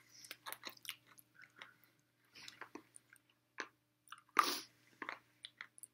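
People chewing gingerbread cookies topped with mustard: soft, scattered mouth clicks and squishy chewing sounds, with one louder, short breathy sound about four and a half seconds in.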